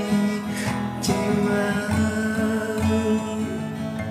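Acoustic guitar strummed in a pop ballad accompaniment, chords ringing between strokes.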